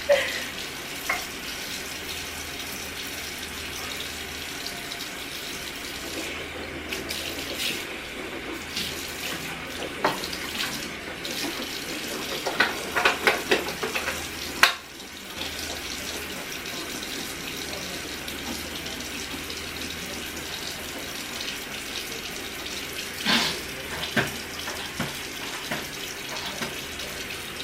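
A bathroom sink tap running steadily into the basin, with a few short knocks and splashes scattered through it, one of them about halfway through.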